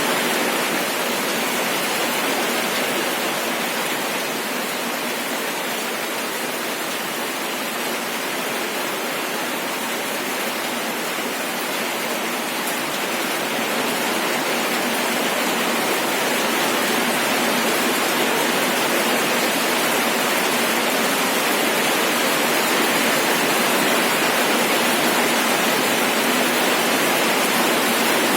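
Steady rainfall, a constant even hiss of rain with no distinct drops standing out.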